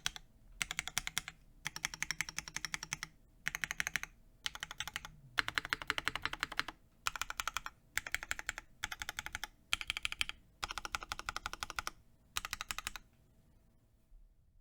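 Mechanical keyboard being typed on in quick bursts with short pauses. It is built with lubed Cherry MX2A Black linear switches on an Ultem plate, under GMK keycaps. The typing stops about a second before the end.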